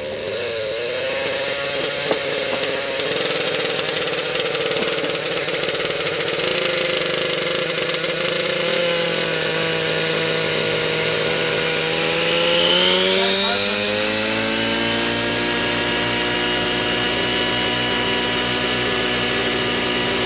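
Align T-Rex 700 nitro RC helicopter's glow-fuel engine and rotor running steadily; about twelve seconds in the pitch rises sharply, then holds steady at a higher speed. The engine is tuned a little rich on the low end.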